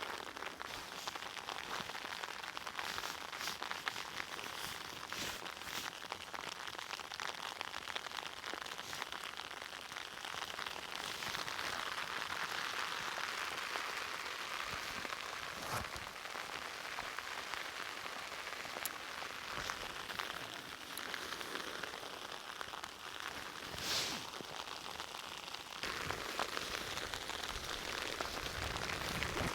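Steady rainfall, with many separate sharp drop hits over an even hiss.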